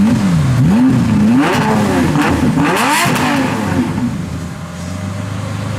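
Lamborghini Murciélago's 6.2-litre V12 through a Quicksilver quad exhaust, loud, revved in a run of quick throttle blips that rise and fall in pitch, the highest about three seconds in, then settling back to a steady idle.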